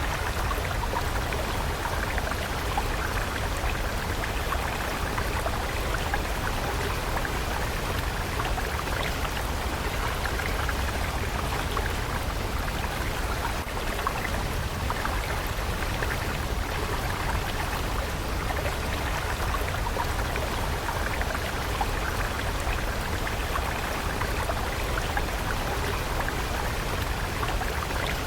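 Stream water flowing steadily, an even rushing with small splashes and trickles throughout.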